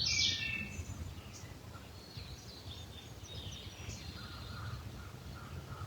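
Songbirds chirping, short high calls that are clearest just after the start and then come faintly and scattered, over a low steady background rumble.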